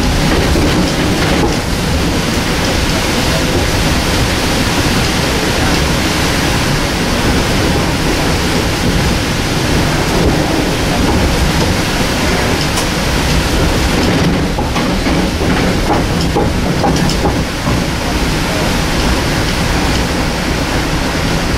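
Metro-North M2 electric multiple-unit train running, heard from on board: a loud, steady rush of wheel and air noise, with a few faint clicks about two-thirds of the way through.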